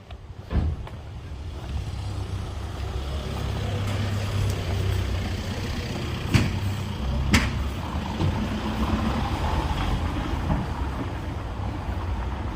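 A heavy motor vehicle running close by with a steady low rumble that builds over the first two seconds, with three sharp knocks, just after the start and about six and seven seconds in.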